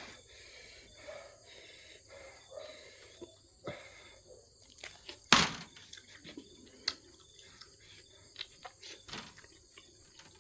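Eating sounds up close: scattered small clicks and mouth noises of chewing, with one louder noisy burst about five seconds in.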